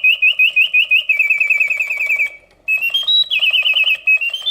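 Vintage 1969 Reuge singing bird cage's bellows-driven whistle singing on its continuous setting: fast trills of repeated chirps, about six or seven a second, broken once by a short pause a little past halfway, then stepping up and down in pitch. The song is loud and crisp, yet sweet.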